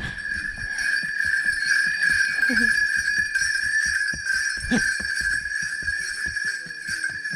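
Bells ringing in a steady, continuous jingle, as from a passing train of pack animals, with many short clicks underneath.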